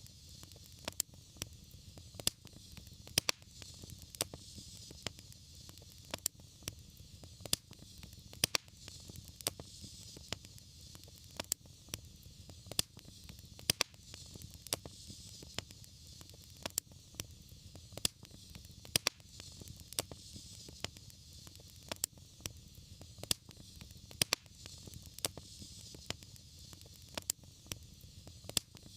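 Wood fire burning in a fireplace: irregular sharp crackles and pops, a few each second, over a steady soft hiss and low rumble.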